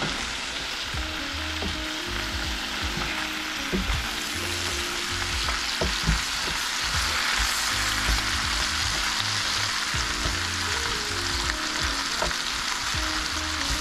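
Kielbasa and cabbage frying in an electric skillet: a steady sizzling hiss, with occasional knocks and clacks as metal tongs toss the cabbage against the pan.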